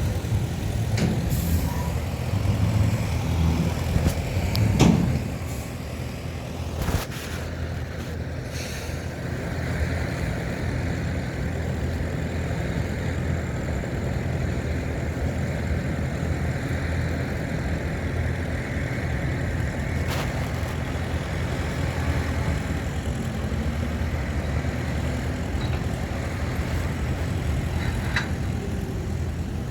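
Heavy diesel earthmoving machinery running steadily under load, with a few sharp knocks, the loudest about five seconds in.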